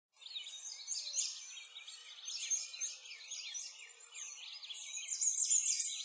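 Songbirds chirping, a dense chorus of many short overlapping high calls and sweeps.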